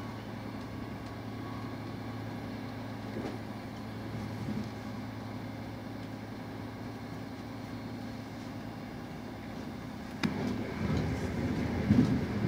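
Steady running noise of a moving passenger train heard from inside the coach, a constant low hum and rumble. About ten seconds in there is a sharp click, then the rumbling grows louder and rougher until near the end.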